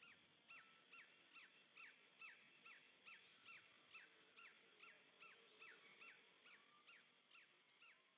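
A bird calling over and over: a short, sharply falling whistled note repeated evenly about two and a half times a second, faint, over quiet natural ambience.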